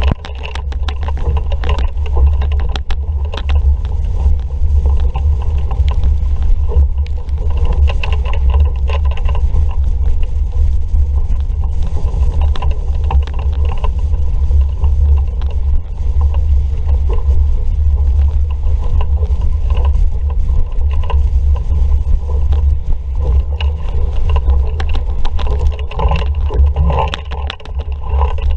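Strong wind rumbling on the microphone, with water rushing and slapping past the hull of a sailing dinghy under way in a breeze.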